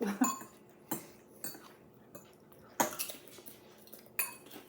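Cutlery clinking against dishes while eating: about six separate light clinks spaced irregularly, two close together at the start and the last one near the end.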